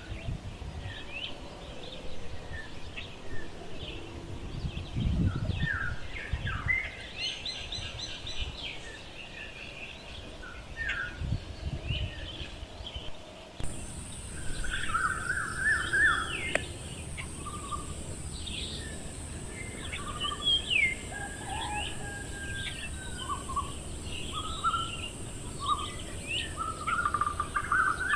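Several birds chirping and calling in many short notes, over outdoor background noise. About halfway through the background changes suddenly and a steady high-pitched hiss sets in.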